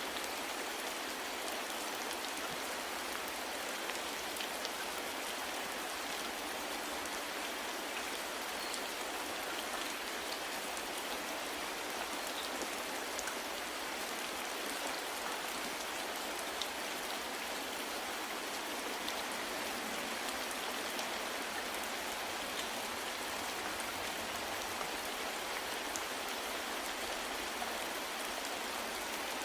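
Steady soft rain falling on a surface, an even hiss with faint scattered drop ticks.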